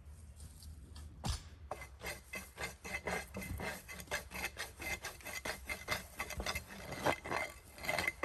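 Rough scraping and rasping strokes on wood, starting about a second in and coming quickly and unevenly, a few strokes a second.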